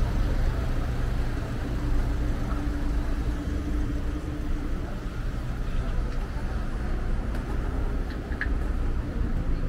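Steady low rumble of a motor vehicle's engine running nearby, over street noise.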